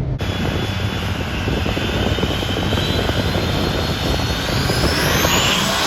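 Turbocharged Duramax diesel pickup engine under hard acceleration on a drag strip run, with a whine that climbs in pitch over the last couple of seconds.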